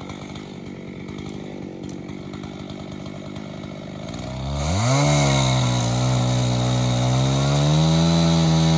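Two-stroke chainsaw idling, then revved up about four and a half seconds in and held at high speed, its pitch wavering slightly as the load changes.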